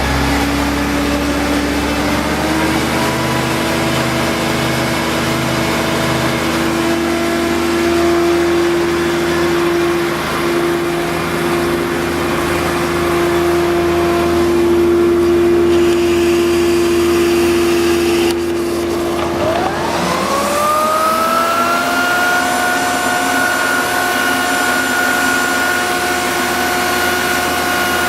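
Leader hydraulic positive-pressure ventilation fan running with a steady whirr and hum. About twenty seconds in, a higher whine rises in pitch and then holds steady as the machine speeds up.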